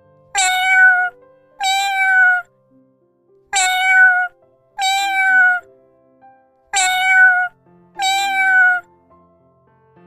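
Domestic cat meowing: six meows in three pairs, each just under a second long and dipping in pitch at the end, the same call repeated each time. Soft background music plays underneath.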